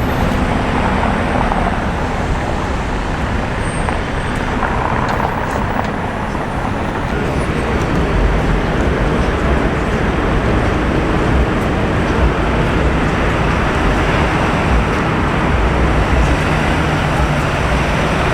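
Street traffic: a continuous wash of road noise with the rumble of passing vehicle engines. The low rumble grows heavier about halfway through and again near the end as vehicles pass close.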